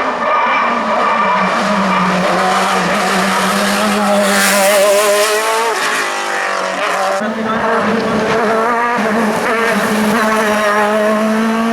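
Hill climb race car engine running hard, its pitch rising and falling with throttle and gear changes, loudest about four to five seconds in as the car passes.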